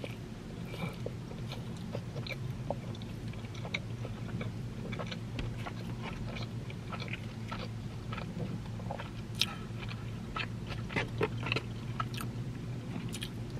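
Someone biting into and chewing a bacon burger close to the microphone, with a string of short wet mouth clicks and smacks over a steady low hum.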